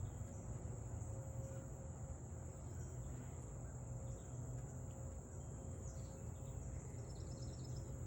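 Insects trilling in a steady, high-pitched chorus over a low background rumble, with a few faint bird chirps near the end.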